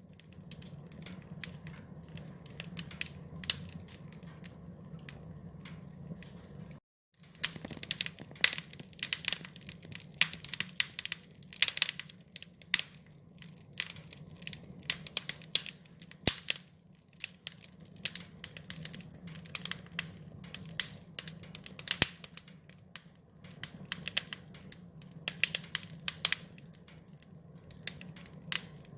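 Wood fire crackling: a steady low rumble of flames under irregular sharp pops and snaps, busier about eight to thirteen seconds in and again near the end. The sound cuts out for a moment about seven seconds in.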